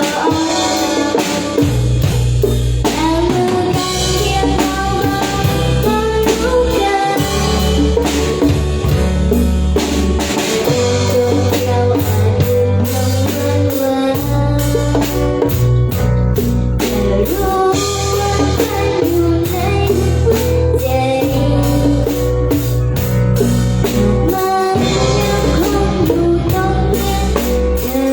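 Live band playing a song with drum kit, bass and guitar, and a melody line that may be singing.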